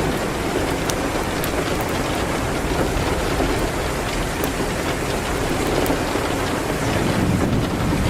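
Steady rain hitting a window, with a low rumble underneath and a few sharp ticks.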